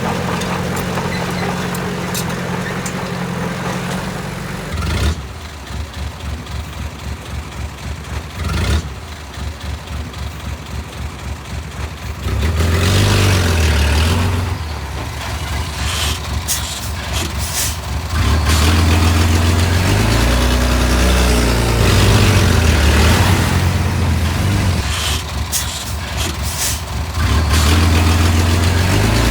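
Heavy diesel engines of construction machinery running, with the engine note rising and falling as they work and short hissing or clattering sounds on top. Between about five and twelve seconds in, an engine pulses evenly. The sound changes abruptly at each end of that stretch.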